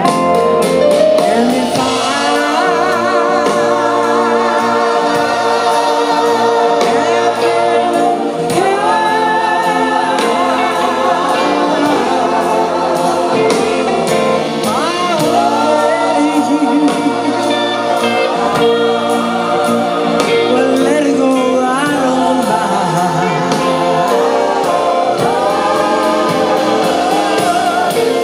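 Live band music with a chorus of backing singers holding sustained wordless harmonies, their voices wavering with vibrato, over the band.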